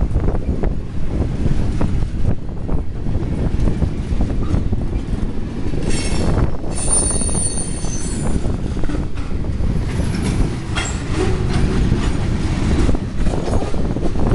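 Freight train of tank cars rolling past, its steel wheels rumbling and clacking on the rails. A high-pitched wheel squeal rings out about six seconds in for a couple of seconds, with fainter squeals a little later.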